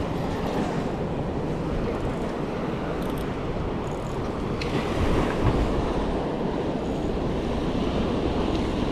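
Ocean waves washing in steadily, with wind buffeting the microphone.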